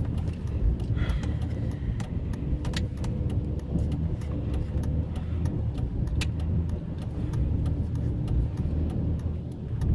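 Car being driven, heard from inside the cabin: a steady low engine and road rumble with a few faint scattered clicks.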